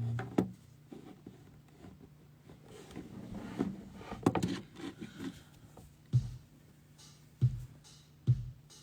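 Small handling noises after the music cuts off: scattered clicks and knocks, then three short low thumps in the second half.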